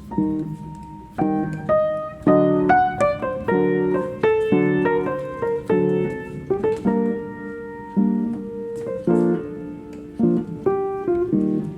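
Background piano music: chords and melody notes struck one after another and left to fade.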